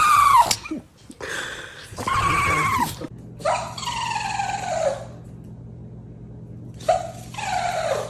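A dog whining: four drawn-out, pitched cries, the third falling in pitch over about a second and a half. A low steady hum comes in about three seconds in.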